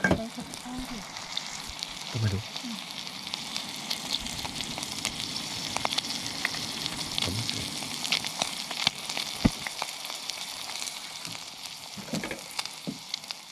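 Ham and eggs sizzling in a stainless steel camping cooker pot over a gas cartridge burner: a steady hiss dotted with small pops and crackles, with a couple of soft knocks.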